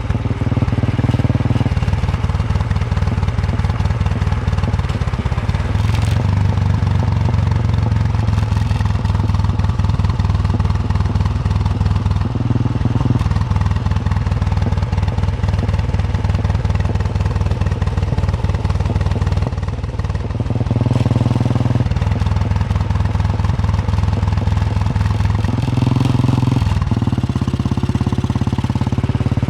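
Single-cylinder engine of a Royal Enfield Bullet 350 thumping steadily under way, its note shifting several times as the throttle or gear changes.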